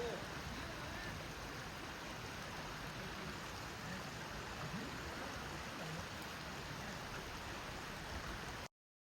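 Steady rush of flowing stream water. It cuts off abruptly shortly before the end.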